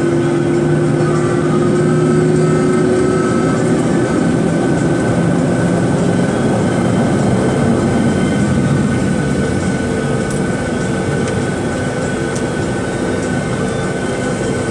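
Boeing 737-800's CFM56 jet engines and airflow heard from inside the passenger cabin: a loud, steady roar with a steady high hum, and two lower engine tones that fade out over the first few seconds.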